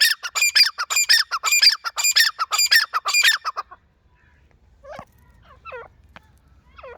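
Penned fowl squawking: a loud, rapid string of harsh repeated calls, about four a second, that breaks off suddenly about three and a half seconds in, followed by a few scattered quieter calls. The squawking comes during a fight between the birds.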